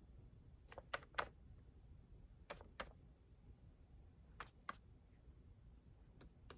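Near silence with a few faint, sharp clicks, mostly in pairs about a third of a second apart: three close together about a second in, then pairs at about two and a half and four and a half seconds, and a single one near the end.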